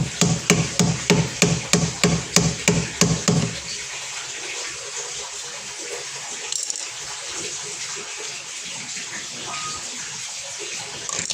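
Background music with a steady beat that stops about three and a half seconds in, followed by a steady hiss of running water.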